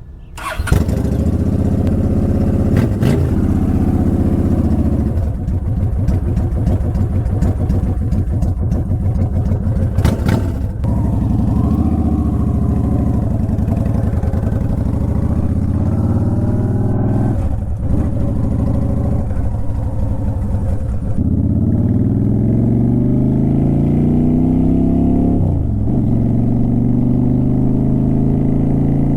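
Honda Shadow Aero 750's V-twin engine and exhaust, getting loud about half a second in and then pulling under way, its pitch climbing as it accelerates, with a sharp dip and renewed climb at the gear shifts a little past halfway and near the end. Wind noise on the microphone runs under it.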